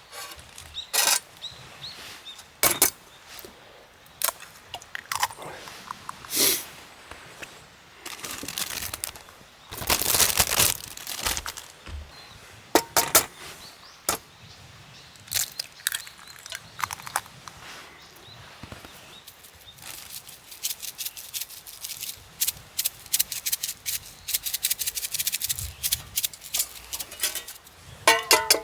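Irregular sharp clicks and knocks with short rustles, getting denser into a fast run of clicks over the last several seconds.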